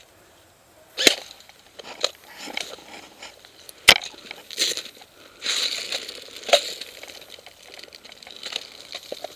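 Two loud, sharp cracks about three seconds apart, with smaller snaps and a stretch of rustling and crunching after the second.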